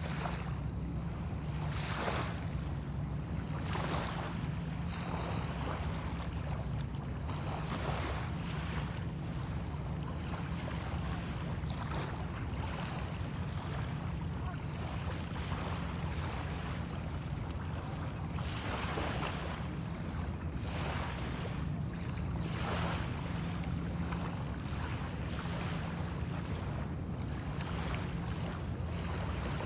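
Small waves washing onto a bay shore, one soft swell every few seconds, over a steady low rumble.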